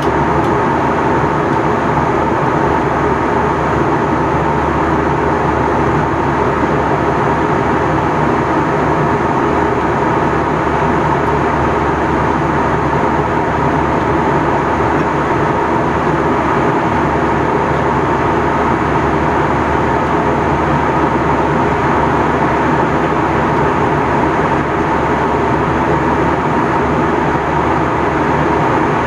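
Steady cabin noise inside an Airbus A321 in flight: a constant rush of airflow over the fuselage and the drone of the jet engines, with a thin steady whine running through it.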